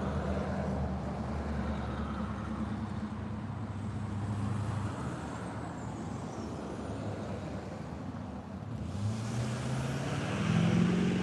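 Road traffic: a motor vehicle's engine hum with tyre noise, growing louder and rising in pitch near the end as a car passes.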